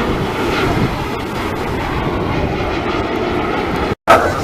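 Aircraft engine noise, a steady loud roar, which drops out for an instant near the end.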